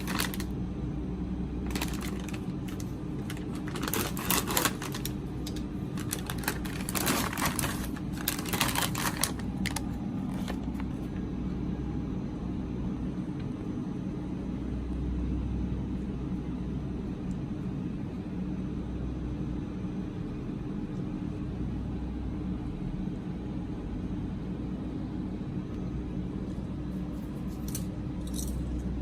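Snack packaging being handled: a quick run of crinkles and sharp clicks over the first ten seconds or so, with a couple more near the end, over a steady low hum.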